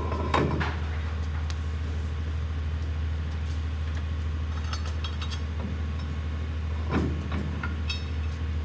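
Wheel loader's engine running with a steady low drone, with a couple of short knocks or clanks near the start and again about seven seconds in.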